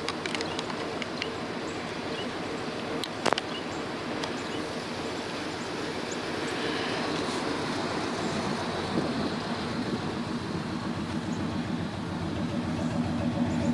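Chevrolet Silverado pickup idling steadily after being started in deep snow, its engine hum growing louder near the end, with one short knock about three seconds in.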